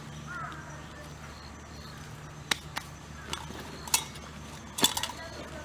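A handful of sharp clicks and knocks, the loudest two near the end, over a steady low hum.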